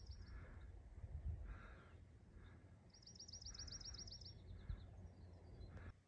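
A songbird sings a rapid, high trill of evenly repeated notes: the tail of one at the very start, and a full trill of about a second and a half about three seconds in, falling slightly at its end. Under it runs a low, uneven rumble of wind on the microphone.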